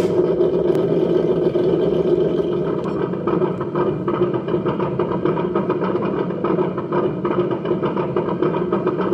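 Simulated diesel engine idling steadily, played through the small speaker of an ESS-One engine sound module in an RC model.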